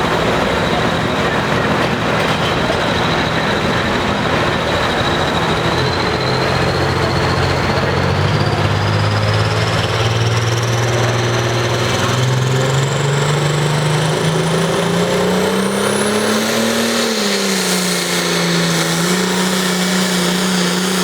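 Case International 7000 series pulling tractor's diesel engine running hard under load during a pull, its pitch climbing over the middle of the run with a high whine rising steadily above it. The announcer says a soft plug may have popped at the very start of this run, leaking oil.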